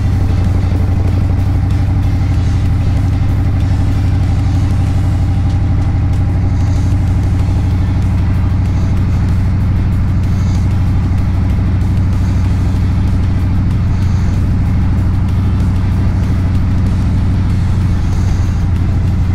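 Harley-Davidson Street Bob's Milwaukee-Eight 114 V-twin engine running at a steady cruise through a Two Brothers aftermarket exhaust, heard from the rider's seat.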